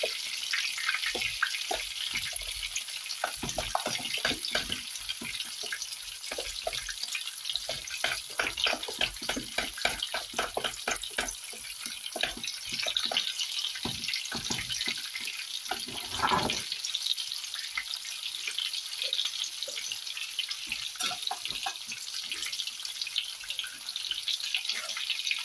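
Breaded pork schnitzels shallow-frying in oil in a pan over low heat: a steady sizzling hiss dotted with many small pops and crackles.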